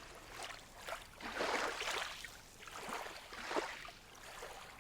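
Small waves lapping on a lake shore, washing in softly every second or two.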